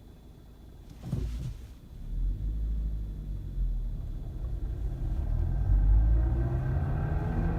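Suzuki Swift 1.3-litre engine pulling the car away and accelerating. A brief thump comes about a second in, then a low rumble builds and the engine note rises steadily in pitch.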